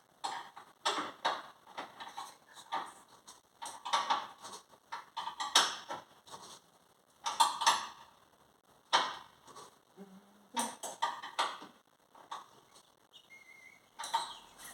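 Car parts and tools being handled during front-end reassembly: a rapid, irregular run of clicks, knocks and rattles, typical of plastic trim pieces and fasteners being fitted by hand.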